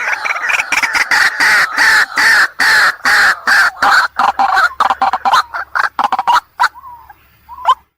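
White-breasted waterhen giving its 'ruak-ruak' call: a loud, fast run of repeated notes, several a second, that thins out to a few scattered notes about six seconds in and then stops.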